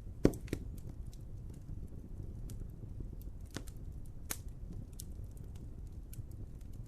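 Wood fire crackling over a steady low rumble, with one loud pop just after the start and scattered sharper snaps through the rest.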